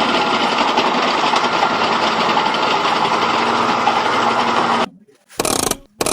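Steady, rapid mechanical buzzing like a small high-speed motor, cutting off abruptly about five seconds in, then returning as short separate bursts.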